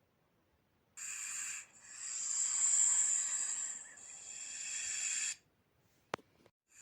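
Snake hissing: a short hiss about a second in, then a long hiss that swells and fades over about three and a half seconds. A single sharp click comes near the end.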